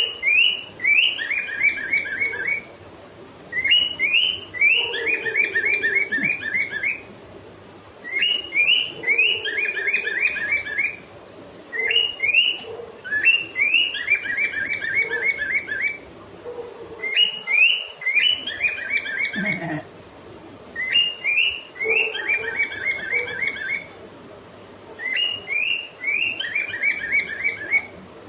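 Cockatiel singing: a whistled song phrase of quick, chirpy notes, repeated over and over in bursts a few seconds long with short pauses between.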